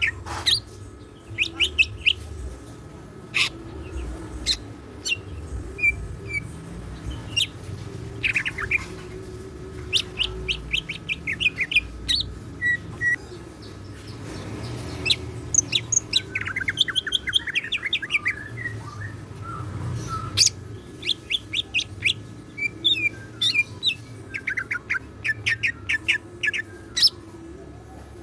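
Cucak ijo (green leafbird) singing in bursts of rapid sharp chirps and fast trills, its song filled with learned phrases ("isian").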